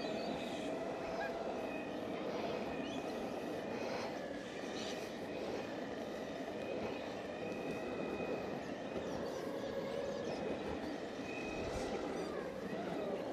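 Exway Flex Pro V3 electric skateboard rolling over parking-lot pavement: a steady rumble of the wheels with a faint whine over it. Birds chirp now and then.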